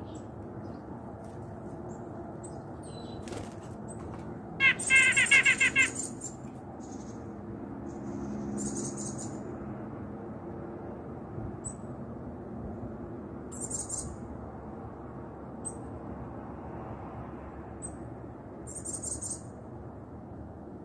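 Bird calls: a loud, rapid run of about eight notes lasting just over a second, about five seconds in, then a few short bursts of high twittering and scattered single high chips over a steady low background hum.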